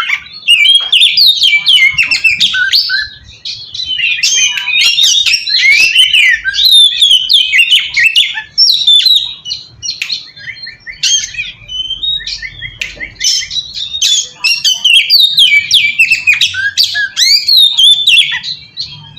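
Oriental magpie-robin (kacer) singing a fast, nearly unbroken, varied song of rising and falling whistles mixed with harsh squawky notes. It is a challenge song of the kind played as a lure to provoke rival magpie-robins into answering.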